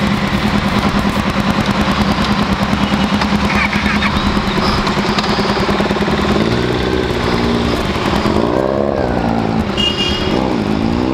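Motorcycle engine on the move with wind rush across the microphone: a steady drone for the first half, then the revs rise and fall several times as the bike accelerates.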